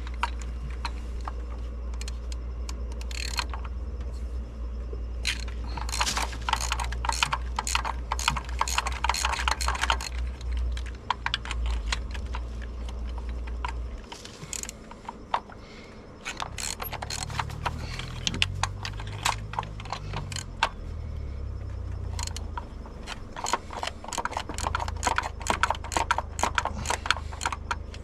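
Ratchet wrench clicking in quick runs, turning a 5/8 spark plug socket to back out the spark plugs. There are two spells, about six seconds in and again near the end, over a low hum that stops about halfway.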